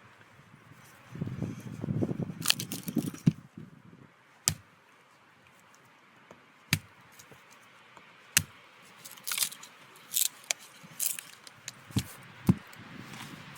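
Gear being handled by hand: rustling for the first few seconds, then a string of sharp separate knocks and clicks with light metallic clinking.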